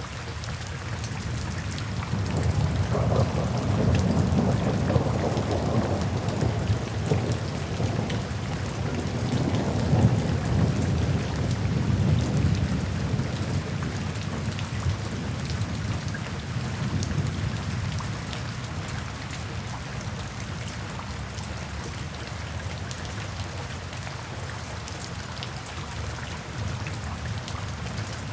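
Steady rain falling, with fine pattering drops. A long low rumble of thunder rolls in a couple of seconds in, swells, and slowly dies away over about fifteen seconds.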